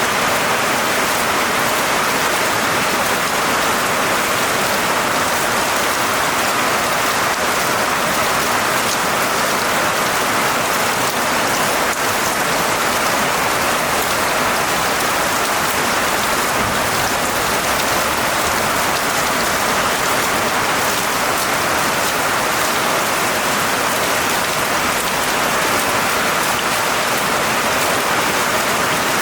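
Steady rain falling, a dense, even hiss of many drops with no breaks or thunderclaps.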